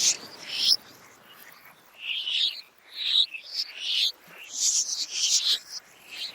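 Wild animal calls in a natural soundscape: short, high-pitched chirping calls that come irregularly and overlap, with busier stretches around the middle and about four seconds in.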